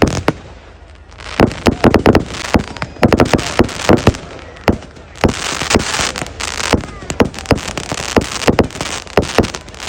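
Fireworks display: a rapid run of sharp bangs several times a second, with a dense crackling from about halfway through as crackling shells burst.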